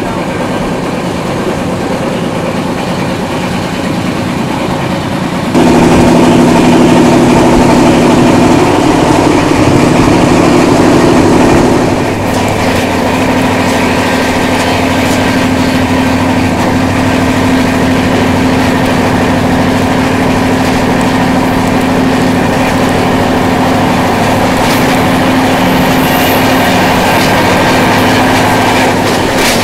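Running noise of a moving passenger train's LHB coaches: a steady din of wheels on rail. About five and a half seconds in it abruptly becomes louder, with a steady hum added, then eases back a little around twelve seconds in while the hum stays.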